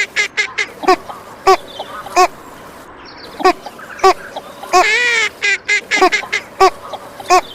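Female northern shoveler quacking: short calls repeated about every half second to a second, with a quick run of calls about five seconds in.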